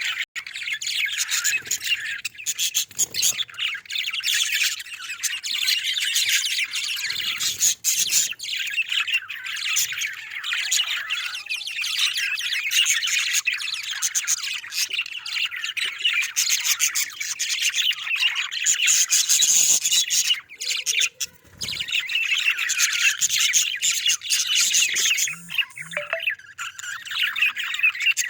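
A colony of budgerigars chattering and squawking without a break, a dense high warble of many calls at once.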